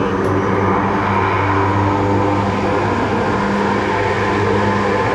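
Four Rolls-Royce AE 2100 turboprops of a Lockheed C-130J-30 Super Hercules running at high power on the ground, a steady loud drone with propeller tones. The six-bladed propellers are set to reverse pitch to back the aircraft up.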